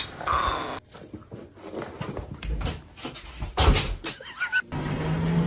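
A dog's high yelp with a short whine after it, then scattered knocks and a loud clatter about three and a half seconds in, with another brief whine. A steady low hum starts near the end.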